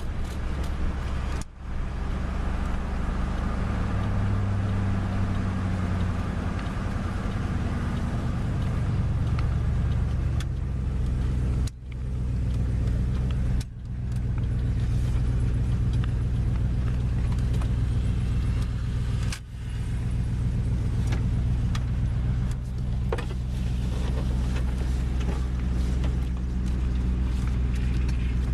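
Dodge Ram pickup engine running steadily on wood gas, a low even drone, with a few brief sharp drops in the sound.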